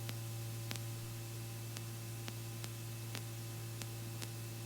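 Steady low hum with hiss, the Robinson R44 helicopter's running noise heard faintly through the intercom audio, with faint irregular ticks about twice a second.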